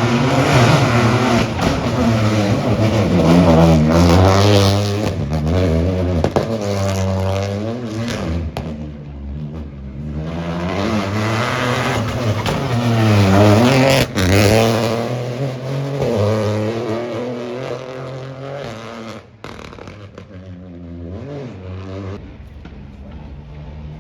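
Rally car engine revving hard up and down through rapid gear changes and braking as it runs through a chicane, with a sharp crack partway through, then fading away.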